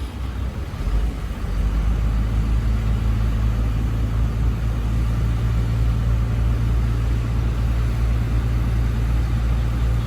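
Heavy diesel engine of earthmoving machinery running steadily at a low pitch, getting louder about a second in and then holding.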